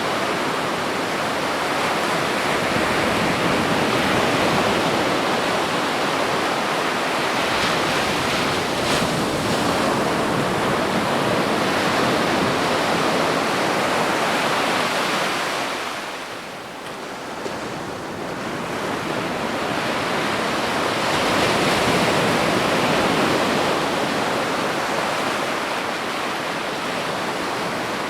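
Ocean waves washing onto a beach: continuous surf that swells and ebbs, easing off briefly about halfway through before the next wave builds.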